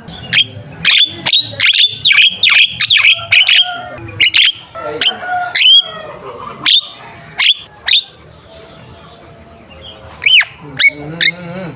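Javan myna calling in full voice: a fast run of loud, sharp, sweeping whistles and squawks, then scattered calls, a lull of about two seconds, and a few more calls near the end.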